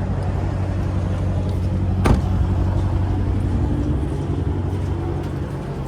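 Chrysler 300's Hemi V8 idling steadily, with a single sharp knock about two seconds in. It grows a little quieter near the end.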